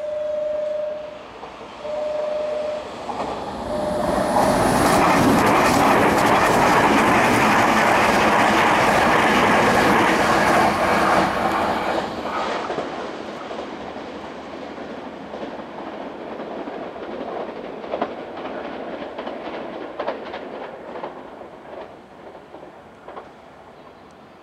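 A repeating warning beep about once a second, then a Nankai electric train running through the station with a loud rumble and rail-joint clacks, which fades out after about twelve seconds.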